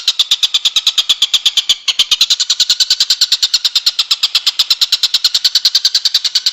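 Songbird masteran recording: an unbroken, rapid trill of short high chirps, about ten a second, with a brief break about two seconds in.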